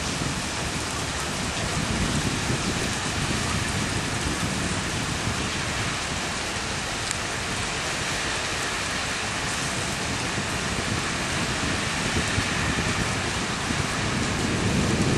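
Heavy rain pouring steadily in a strong wind, an even hiss of water on surfaces. The wind grows louder toward the end.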